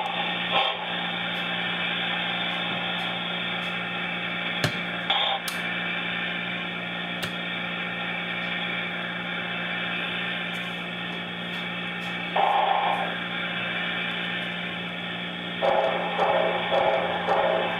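Sound system of a Broadway Limited On30 2-8-0 model steam locomotive playing steam sounds through its small speaker over a steady hum. Rhythmic chuffing comes in briefly about twelve seconds in and again near the end, with a few sharp clicks earlier on.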